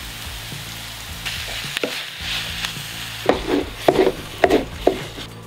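Food sizzling as it fries in hot oil in a pan, with four or five short knocks or scrapes in the second half.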